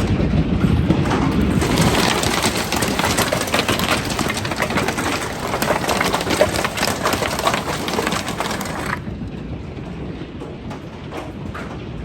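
Hailstones pelting down, a dense clatter of many small hard impacts over a rushing hiss. About nine seconds in the sound suddenly turns duller and thinner, leaving fewer, separate hits.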